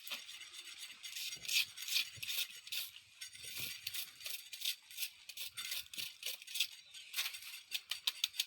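Campfire crackling: a dense, irregular run of sharp snaps and pops from the burning wood.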